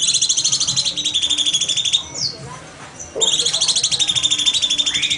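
Cucak cungkok singing: a fast, even trill of rapid repeated high notes, given twice and about two seconds each time, with a short falling note in the gap between them.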